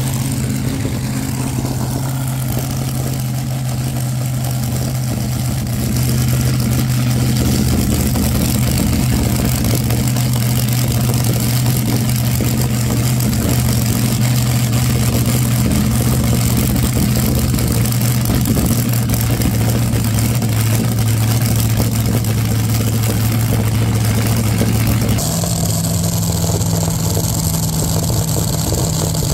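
A car engine running at a steady idle close by, with a constant low hum that shifts abruptly to a slightly higher note near the end.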